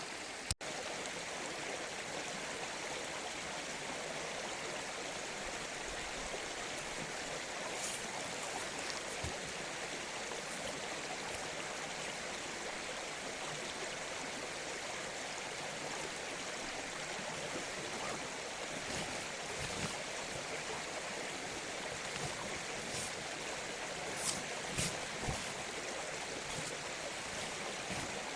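Mountain stream flowing steadily, an even rushing of water, with a momentary gap about half a second in and a few faint clicks near the end.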